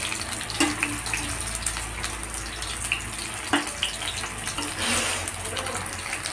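Bakful (Sesbania flower) fritters frying in hot oil in an aluminium kadai: a steady sizzle, with a few light clicks and scrapes of a metal spatula against the pan.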